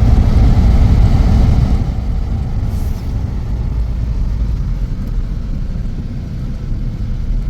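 Wind buffeting the microphone in a snowstorm: a loud, uneven low rumble that eases a little about two seconds in.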